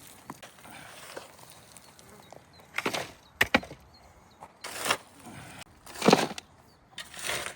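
A handful of irregular wooden knocks and scrapes, about six in all, the loudest about six seconds in.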